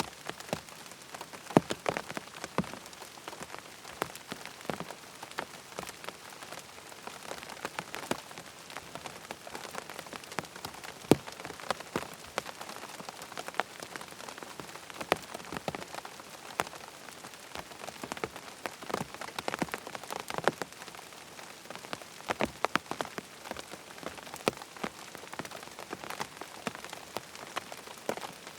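Steady rain pattering on tent fabric, with a constant hiss and many separate heavier drops striking irregularly.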